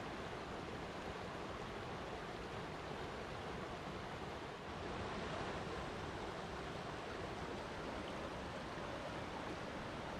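Flowing water rushing steadily, with a brief slight dip about four and a half seconds in.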